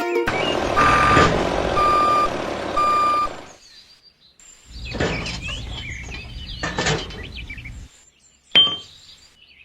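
Vehicle reversing alarm beeping three times, about once a second, over a steady vehicle noise. After a short pause the vehicle noise returns with bird-like chirps, and a sharp click comes near the end.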